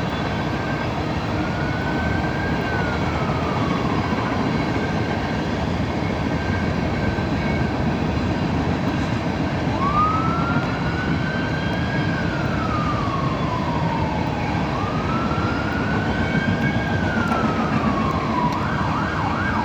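Emergency vehicle siren wailing in slow rising and falling sweeps, switching to a fast yelp near the end, over the steady rumble of a long freight train rolling past.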